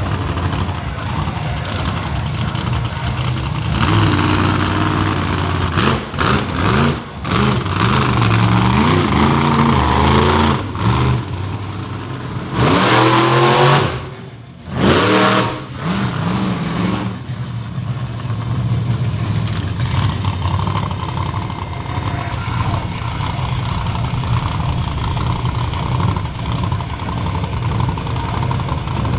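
Monster truck engine revving hard, its pitch climbing and falling repeatedly, with the throttle cut sharply a few times in the first half. It then runs more steadily.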